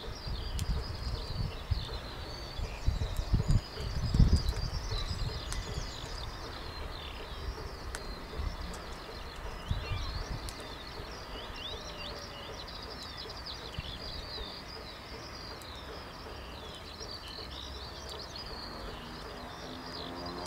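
Small birds chirping and singing continuously in short, rapid calls, with low rumbling thumps during the first few seconds. Music comes in near the end.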